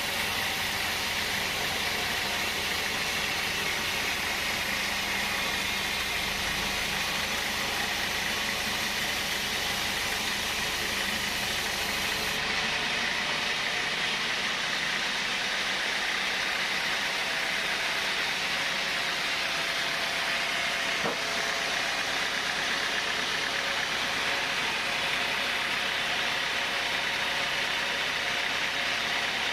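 Sawmill saw running through thick timber, a steady, even hiss with a faint whine; it eases a little in its lowest and highest parts about halfway through.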